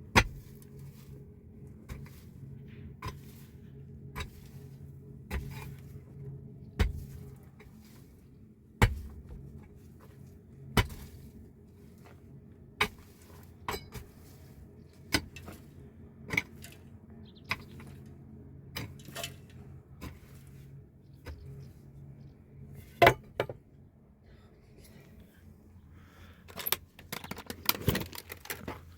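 Sharp knocks and clinks of hard objects being handled, one every second or two, over a faint steady low hum, with a quicker cluster of clatter near the end.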